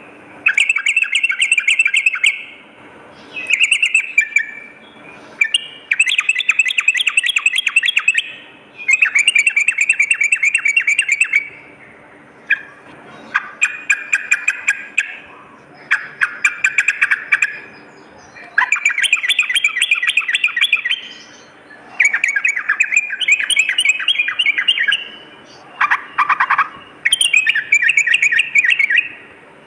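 Yellow-vented bulbul (trucukan) singing in repeated phrases of rapid, bubbling chattering notes, each phrase one to three seconds long with short pauses between. This is the loud, full song used as a master and lure call.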